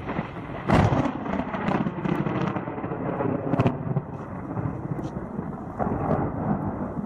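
Thunder: a loud sharp crack about a second in, rolling into a low rumble, with more cracks near two and three and a half seconds in, over steady rain.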